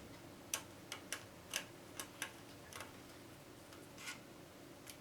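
Irregular sharp clicks and taps of small plastic and metal parts being handled, about eight in the first three seconds and two more later, as the tape counter is unscrewed and lifted out of a boombox.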